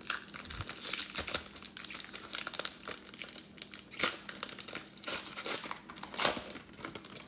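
Plastic trading-card pack wrapper being torn open and crinkled by hand: a run of crackles with a couple of louder rips about four and six seconds in.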